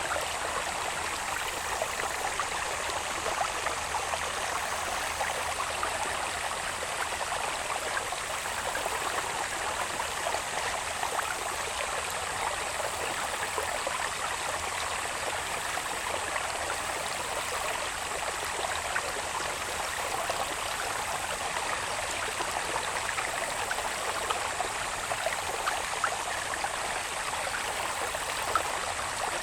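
Water babbling steadily along a small irrigation channel that runs from the hillside into the rice fields, with a continuous fine splashing.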